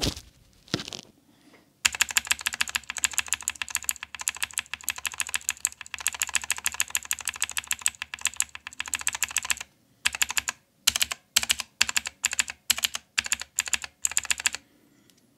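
Clicky blue mechanical keyboard switches on a Game Power Overlord keyboard, freshly lubricated with hand cream. They are typed on rapidly for about eight seconds, then pressed singly about twice a second, as a test of whether the crackly click has been softened.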